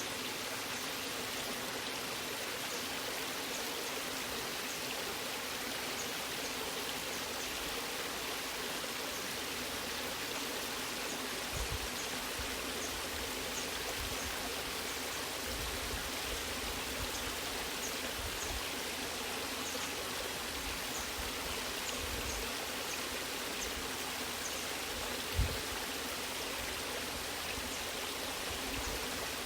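Waterfall water rushing with a steady, even hiss. A few brief low thumps sound in it, the loudest about three-quarters of the way through.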